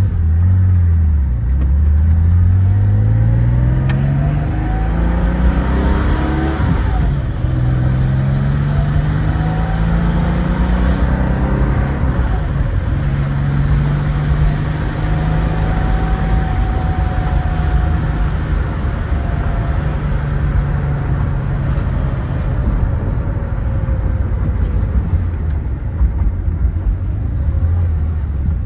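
1975 Porsche 911S's air-cooled flat-six engine accelerating through the gears, its pitch climbing twice with a gear change between, then settling to a steady cruise about halfway through.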